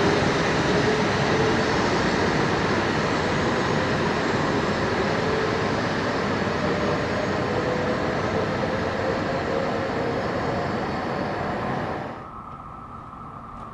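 E956 ALFA-X Shinkansen test train moving along a station platform: a steady rumble of running noise with a faint electric whine. The level drops sharply about twelve seconds in.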